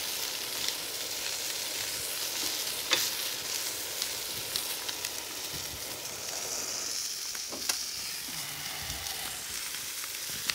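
Shrimp sizzling in oil on a hot cast iron grill pan, a steady frying hiss, with a few light clicks of metal tongs against the pan as the shrimp are turned.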